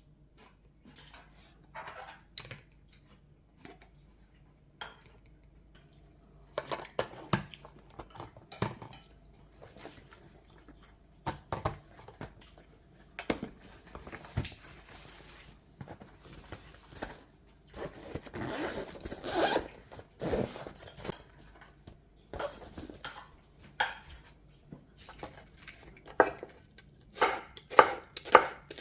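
Kitchen work: dishes, containers and utensils being handled and set down in scattered knocks and clatter. Near the end a knife starts chopping steadily on a cutting board, about two strokes a second.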